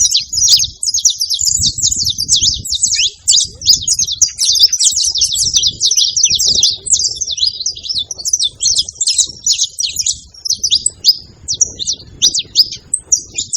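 Saffron finch song: a fast, unbroken stream of high chirping notes, with a low rumble underneath.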